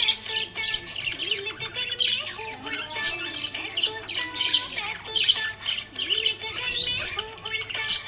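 Budgerigar chirping and warbling in a fast, continuous run of short squawks and twittering notes.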